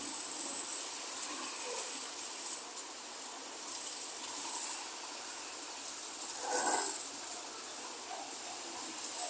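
Insects, crickets or similar, chirring in a high, even band that swells and fades every two to three seconds, over a steady hiss of falling rain.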